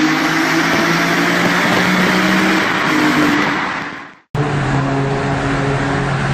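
Supercar engine running hard in a tunnel, echoing off the walls. It fades out about four seconds in, and after a brief gap another supercar's engine cuts in abruptly.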